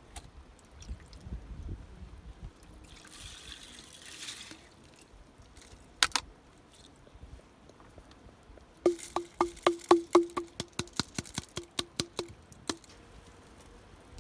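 A short pour of liquid, then a quick run of about a dozen sharp clinks, some with a brief ringing tone.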